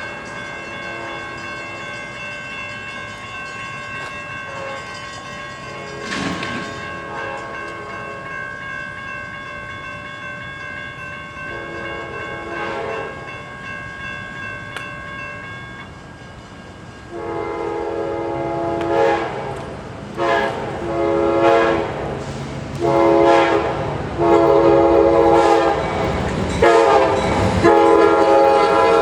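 A freight locomotive's horn sounding a series of loud, separate blasts in the second half, growing louder as the train approaches. Before that, a steady high ringing runs for about sixteen seconds, with only a brief, fainter horn note partway through.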